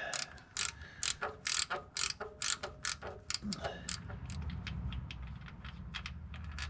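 Socket ratchet clicking in short irregular runs as the lower starter bolt is backed out, the clicks growing fainter in the second half.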